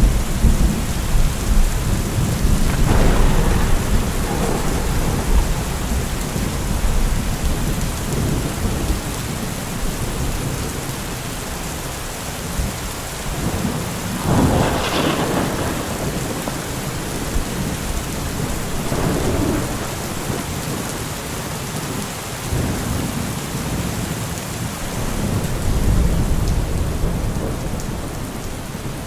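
Heavy rain falling steadily through a thunderstorm, with rolling thunder. Deep rumbles at the start fade after a few seconds, a sharper crack of thunder comes about halfway through with a smaller one soon after, and the rumbling returns near the end.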